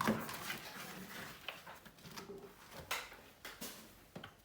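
Scattered light clicks and knocks of small objects being picked up and set down on a desk, about five in all, with faint rustling between them.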